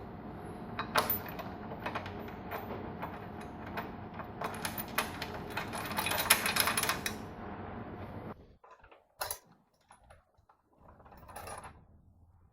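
Sharp metallic clicks and clatters of hand work on parts, over a steady background hum that cuts off abruptly about eight seconds in, after which only a few scattered clicks remain.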